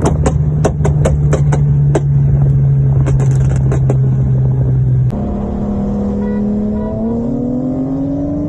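Car engine running hard at a steady, slowly falling pitch, with sharp cracks and pops over it. About five seconds in the sound changes abruptly to the engine climbing steadily in pitch as the car accelerates.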